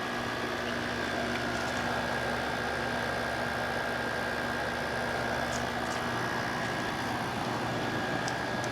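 Frigidaire FRA065AT7 6000 BTU window air conditioner running with its compressor on and blowing cold: a steady rush of fan air over a low hum and a faint high whine.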